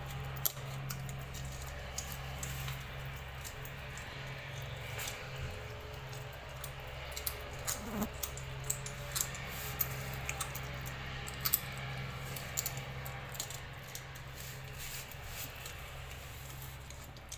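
Kitten eating noisily: irregular wet chewing and smacking clicks, over a steady low hum.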